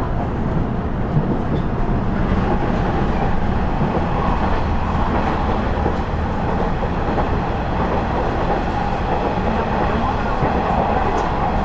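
Running noise inside a KiHa 110 series diesel railcar (KiHa 112) under way: a steady rumble of the diesel engine and the wheels on the rails. A mid-pitched hum rises into it about two seconds in.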